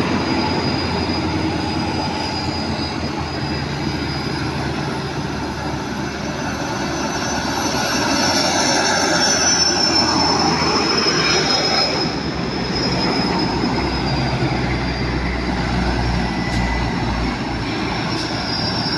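A convoy of tanker trucks driving past: diesel engines running and tyres on the road, swelling as a truck passes close about eight to eleven seconds in. A thin, steady high whine runs through it.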